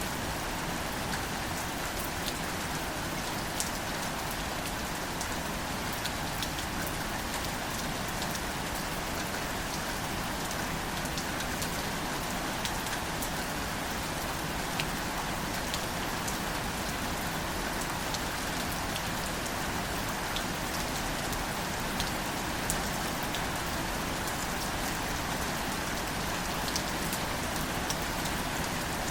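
Gentle, steady rain falling on greater celandine plants, a continuous even hiss with scattered single drops ticking sharply now and then.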